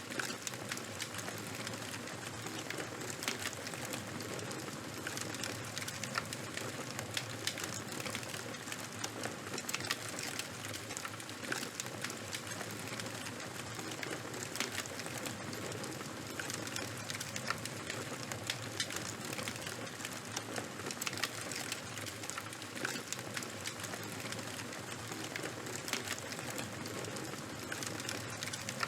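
Burning charcoal and bonfire crackling steadily, with many small, sharp pops over a constant hiss.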